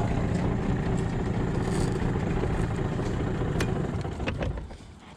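Boat outboard motor idling at the dock, then shut off about four and a half seconds in, with a couple of sharp knocks just before it stops.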